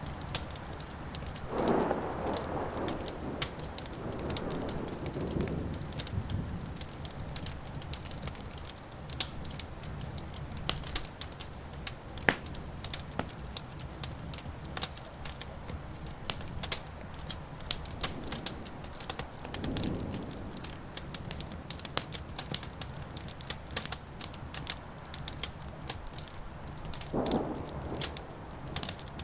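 Wood fire crackling, with frequent sharp pops and snaps; the sharpest pop comes about twelve seconds in. Three swells of a louder, lower rushing sound rise and fade: near the start, about two-thirds through, and near the end.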